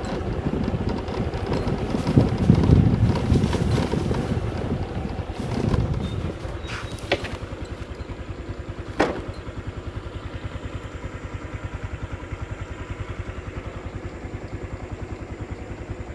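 Small engine running with a fast, even pulse. It is louder for the first several seconds, then settles steadier, with a couple of sharp clicks in the middle.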